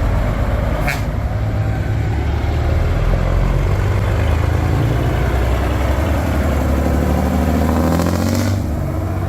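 Heavy truck's diesel engine pulling away and accelerating, rising in pitch near the end. A brief sharp sound comes about a second in, and a short hiss near the end.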